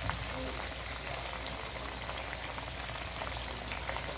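Food cooking in a pan on the stove: a steady sizzle dotted with many small crackles and pops.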